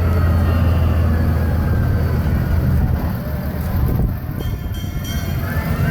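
Heavy fire truck's diesel engine running close by, a steady deep rumble.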